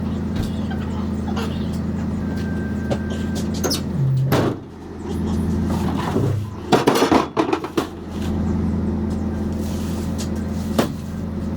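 A vehicle engine running steadily with a low hum, broken by knocks and rattles. The hum drops out briefly about four and a half seconds in, and the knocks are loudest in a cluster around seven seconds.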